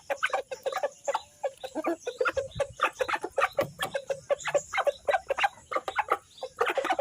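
Chickens clucking, a busy run of short calls several times a second, overlapping.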